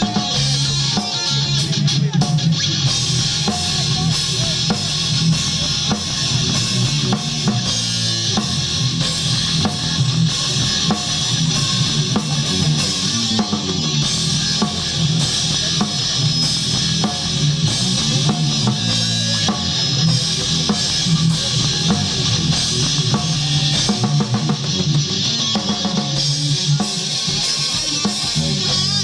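Live rock band playing: distorted electric guitar over a drum kit with a steady kick drum beat.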